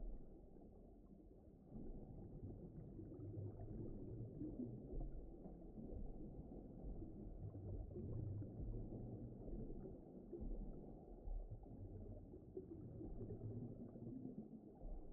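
Faint, muffled underwater ocean ambience: a low, shifting rumble of water noise with no clear tone.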